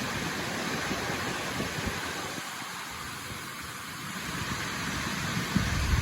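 Waterfall, a steady rushing hiss of falling water, with low wind rumble on the microphone that eases in the middle and returns near the end.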